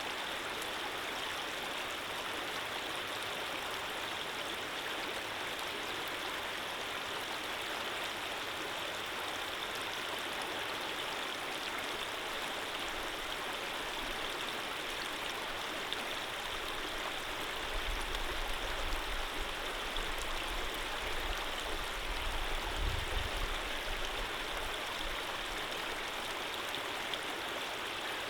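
Stream water flowing steadily with an even rushing hiss. A low rumble joins in past the middle and fades out again a few seconds later.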